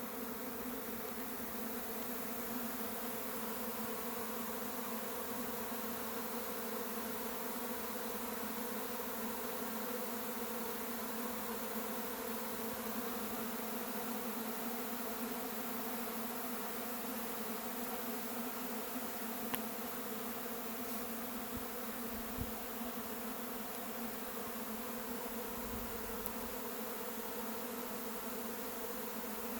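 Honey bee swarm in flight: the steady, dense buzzing hum of thousands of bees in the air after leaving the hive.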